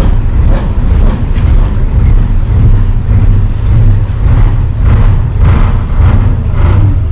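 Steady low rumble of a barge's engine under way, with wind buffeting the microphone in uneven gusts.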